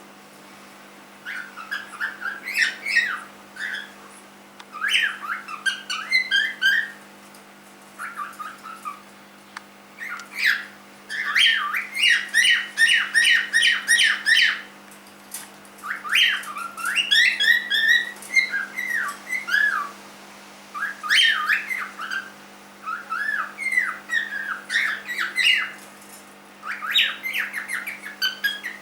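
Young three-month-old cockatiel singing: bouts of warbled whistles and chirps with short pauses between them, over a steady low hum.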